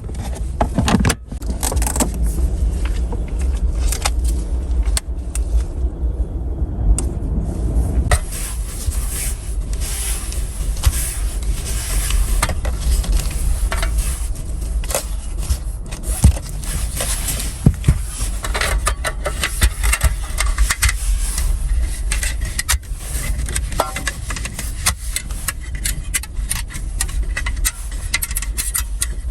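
Continuous scraping and crunching with many sharp clicks and clatters, over a steady low rumble.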